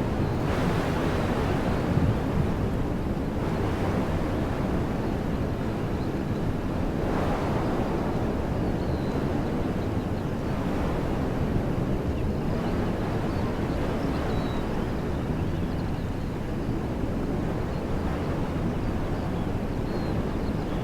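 Wind blowing through trees, a steady rushing that swells in gusts several times, with a few faint, brief high chirps.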